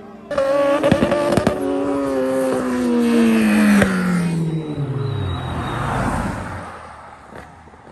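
Race car engine at full throttle passing by and pulling away, its pitch falling steadily as it recedes and fades, with a few sharp cracks in the first seconds.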